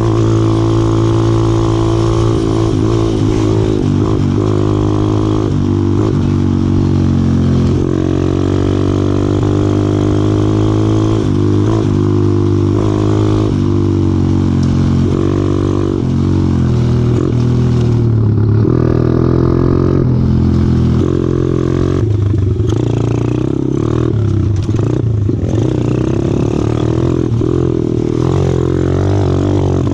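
125cc four-stroke pit bike engine running on the move, its pitch rising and falling with the throttle as it rides the trail.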